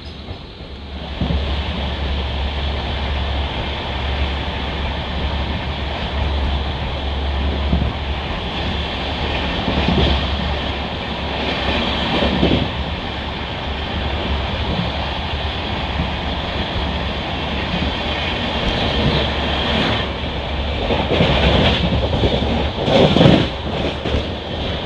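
Passenger train running on the track, heard from on board: a steady rumble and rush of wheels on rail, with a few louder clattering passages from the coach wheels.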